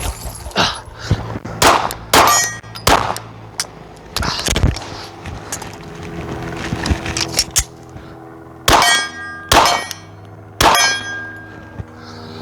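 Pistol shots fired one after another in a shooting drill, about a dozen, with steel targets clanging and ringing as they are hit. The last three shots come about a second apart, and a steady metallic ring hangs on after them.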